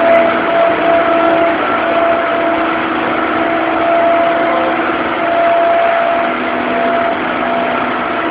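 Diesel engine of a 2013 Pierce Velocity 100 ft ladder fire truck idling steadily, with a constant hum.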